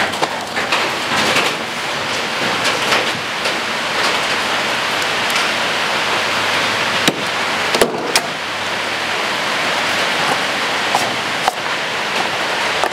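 Steady rain falling on the shop roof, heard from inside, with a few sharp knocks about seven seconds in and again near the end.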